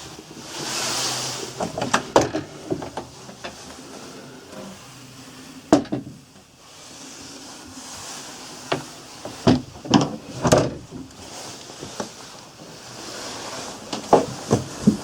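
Irregular knocks and clunks over a steady low background, with a short hiss about a second in.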